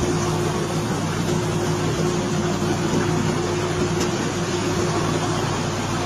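Heavy machinery engine running steadily, a constant drone with a steady hum.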